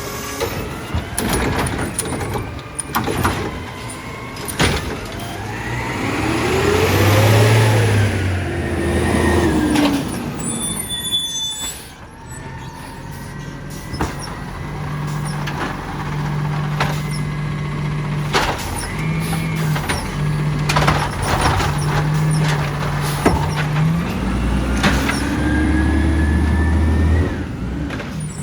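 Side-loader garbage truck's diesel engine running and revving up at work, with sharp mechanical knocks. The engine rises in pitch about seven seconds in and again near the end, and holds a steady higher speed in between.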